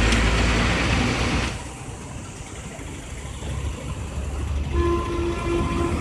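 Railway station ambience: a loud rumble and hiss of train noise that drops after about a second and a half, then three short horn toots near the end.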